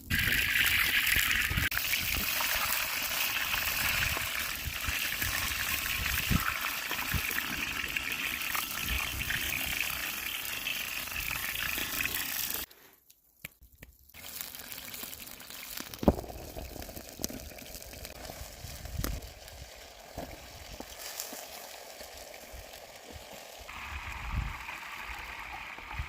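Chicken legs and potatoes frying on a saj over a campfire: a loud, steady sizzle that cuts off abruptly about halfway, then a quieter sizzle with scattered clicks.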